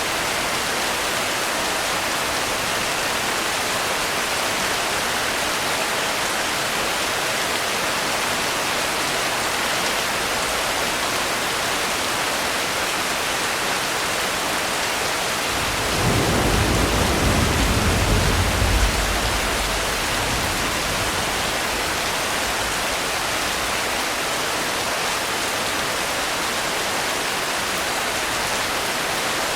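Steady rain falling, with a low roll of thunder building about halfway through and fading a few seconds later.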